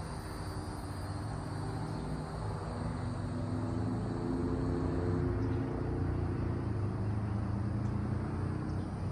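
A motor vehicle's engine hum, growing louder about halfway through and staying loud, over a faint steady high buzz of cicadas.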